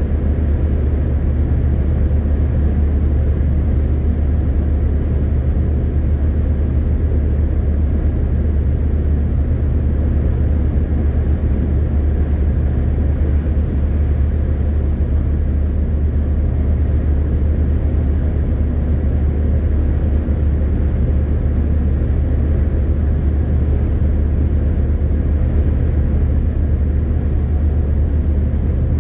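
MAN TGX 18.520 truck's straight-six diesel and road noise while driving at a steady speed: a constant low drone that does not rise or fall.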